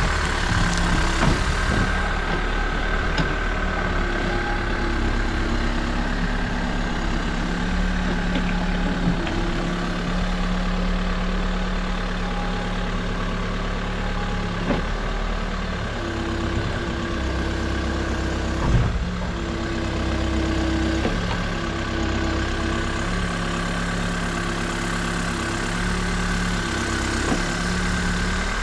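New Holland backhoe loader's diesel engine running steadily near idle, with a steady high whine over it. There are a few light knocks, the clearest about two-thirds of the way through.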